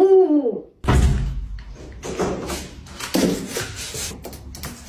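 Pet owl giving a short hoot that falls in pitch. After about a second come a few seconds of irregular rustling and scuffing with small knocks.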